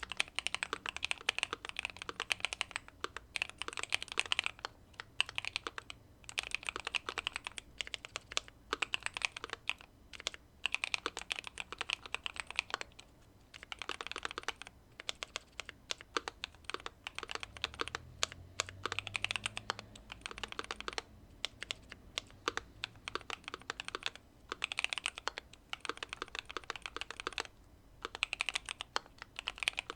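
Fast typing on a Keychron Q2 mechanical keyboard with factory-lubed Pearl Lemon switches, tape-modded and case-foamed: dense runs of sharp keystroke clicks in spells of a second or two, with short pauses between.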